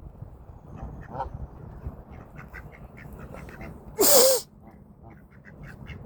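Ducks quacking: a run of short, soft quacks, with one loud, raspy quack about four seconds in.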